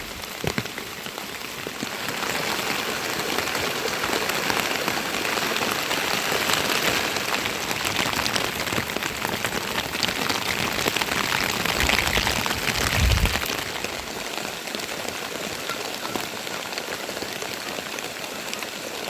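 Rain falling steadily, a dense hiss of many drops, heavier through the middle and easing a little after a brief low rumble about two-thirds of the way through.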